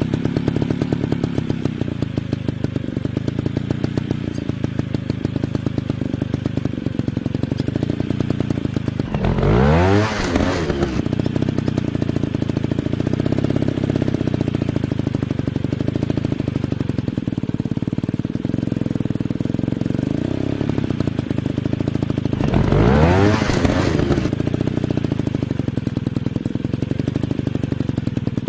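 Dirt bike engine running steadily, revved up and back down twice: once about ten seconds in and again a little after twenty seconds.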